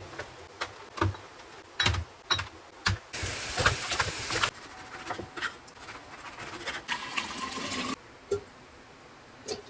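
Liquid poured into a container twice: a short, loud pour about three seconds in, and a second pour near the end that rises in pitch as the container fills. Between them, light clicks and knocks of containers and lids being handled.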